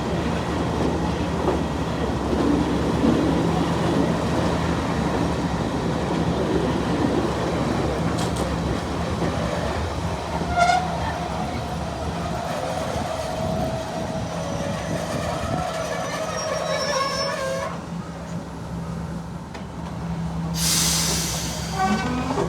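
Diesel train running on the rails with a steady low engine hum, a drawn-out metallic wheel squeal through the middle lasting several seconds, and a short burst of hiss near the end.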